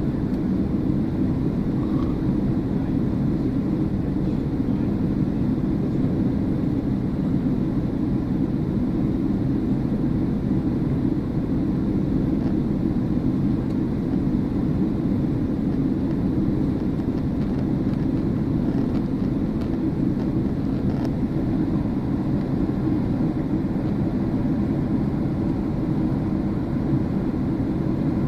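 Airliner cabin noise after takeoff: a steady, low rumble of the engines and airflow heard from inside the passenger cabin.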